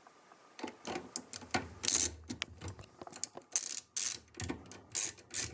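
Ratchet wrench clicking in irregular strokes as the centre bolt of a Whirlpool washer's agitator is run down, starting about half a second in.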